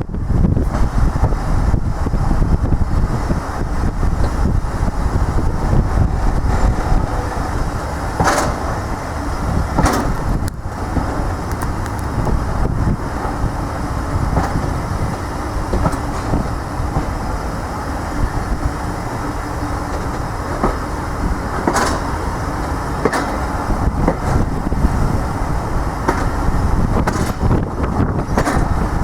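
A train running on rails: a steady rumble broken by a few sharp knocks.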